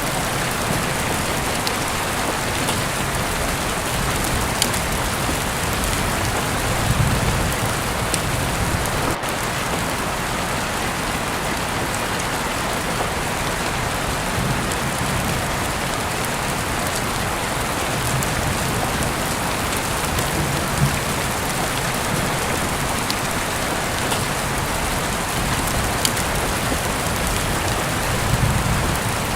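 Heavy rain falling steadily: a dense, even hiss with scattered individual drops ticking, and a few brief low swells underneath.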